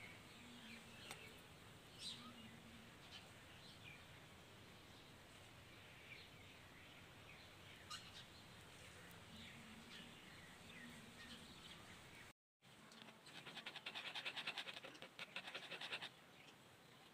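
Faint outdoor quiet with small birds chirping now and then. About two-thirds of the way through, a louder rapid scratchy ticking runs for about three seconds.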